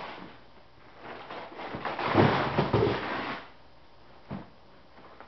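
Packing material being handled and rustled during unpacking, a dense crackling, scraping noise for about two seconds in the middle, with a few light knocks before and after.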